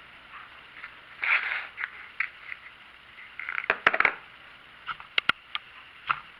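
Handling noises: irregular rustling scrapes and a string of sharp small clicks and knocks, the sharpest clustered about four seconds in.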